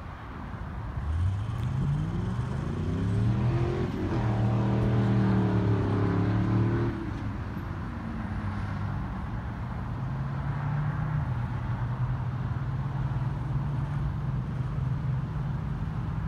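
A motor vehicle engine speeding up over a few seconds, then running steadily; about seven seconds in it drops to a quieter, even running.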